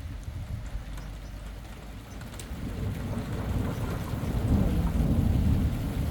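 Thunder rumbling low and building in loudness from about halfway through.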